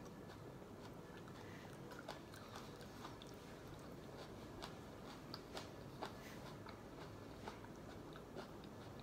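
A person chewing food, faint, with scattered small clicks and smacks of the mouth.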